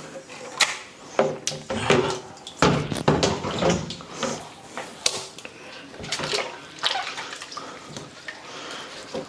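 Washing by hand at a sink: water running and splashing, with irregular knocks and clatters as things are handled and set down, busiest in the first few seconds.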